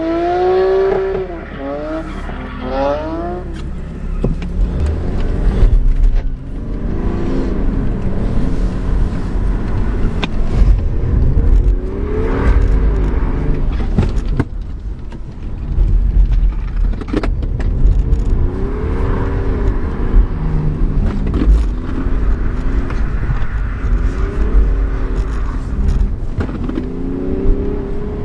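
BMW 335d's twin-turbo diesel straight-six heard from inside the cabin, revving up and falling back again and again as the car is driven hard, over a heavy low road rumble.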